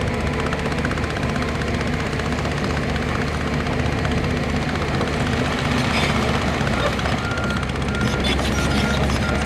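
Heavy diesel earthmoving machine engine running steadily under load, with scattered metallic clanks from the machine working through gravel and rock.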